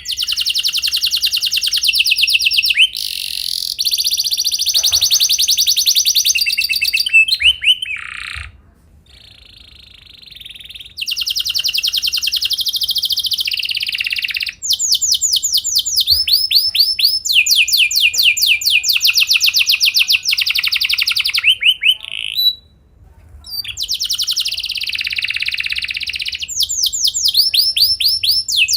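Domestic canary singing long rolling trills: fast runs of rapidly repeated high notes, each phrase several seconds long, broken by two short pauses, about a third of the way in and again about three-quarters of the way in.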